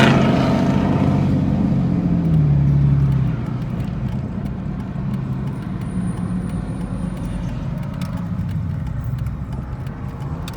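A car engine is loudest right at the start, its pitch falling away over the first three seconds, then settles into a steady low engine and road rumble.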